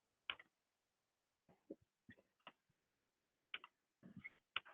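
Near silence with faint, irregularly spaced clicks, about eight over the few seconds and bunched together near the end, typical of computer input clicks.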